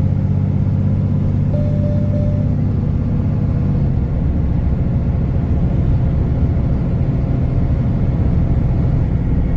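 Kenworth T360 concrete mixer truck's diesel engine and road noise droning steadily, heard inside the cab while driving. The engine note changes about four seconds in.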